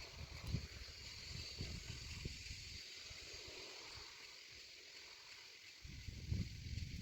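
Low rumbling buffets on the microphone that die away about three seconds in and return near the end, over a steady high hiss.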